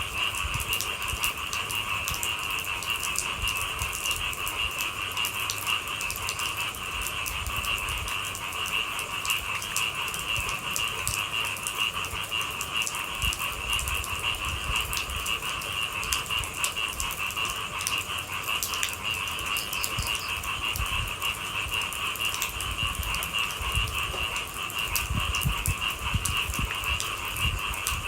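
A steady night chorus of calling animals, a continuous high trilling, over rain with scattered drips and drops tapping on a surface.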